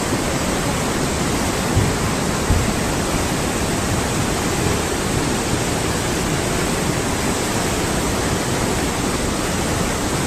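Steady, loud rushing of a mountain river in flood. Two brief low knocks come about two seconds in.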